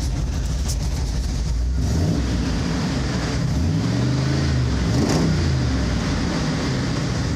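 Car engine through a new Dynomax muffler and 2.5-inch exhaust, idling, then revved once: the pitch climbs from about two seconds in and drops back to idle a little after five seconds.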